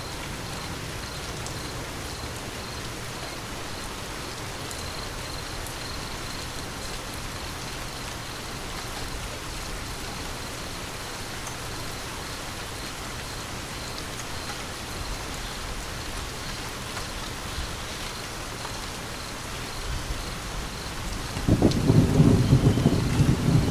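Steady rain falling in an even hiss. Near the end a low rumble of thunder begins and becomes the loudest sound.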